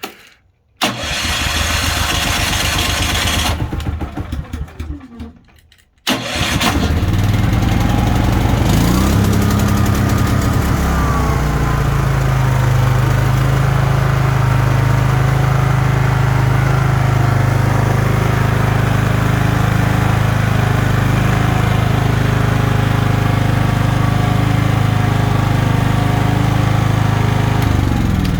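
Small portable generator engine cold-starting on its electric starter at −15 °C: a few seconds of ragged cranking, then it catches about six seconds in and runs steadily, its pitch climbing and settling as it comes up to speed.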